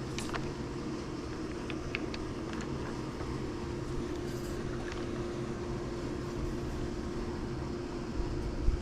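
Pool pump running steadily during pool vacuuming, an even electric motor hum over water rush and low rumble. A few faint clicks come in the first half, and a low bump near the end.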